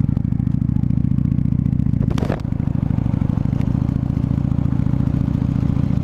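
Exhaust of a 1998 Honda VT600 Shadow's V-twin engine, running steadily at riding speed, with the deep pulsing beat of a twin, through what the rider takes for open, unbaffled pipes. A brief noise cuts across it a little over two seconds in.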